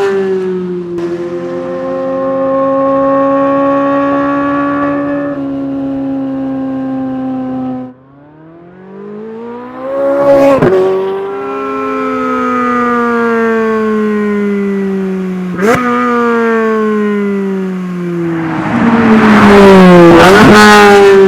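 Chevrolet Corvette Z06's naturally aspirated 5.5-litre flat-plane-crank V8 running hard at high revs on a track, its pitch climbing and falling through gear changes. The sound drops away briefly about eight seconds in. It swells and swoops sharply about ten seconds in and again near the end.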